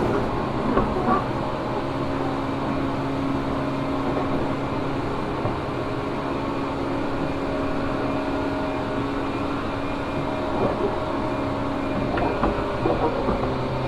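Interior running sound of a JR Kyushu 415 series 1500-subseries electric multiple unit's motor car, a steady rumble with a constant low hum. This unit is known for an unusual noise.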